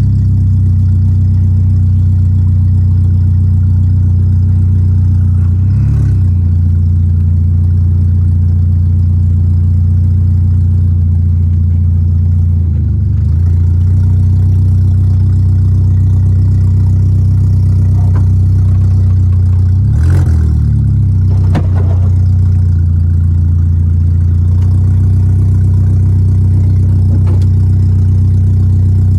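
Volkswagen Gol G4 Rallye's four-cylinder engine running steadily while the car is driven, a low, even drone. The pitch dips briefly and recovers three times, and a few sharp clicks come about two-thirds of the way through.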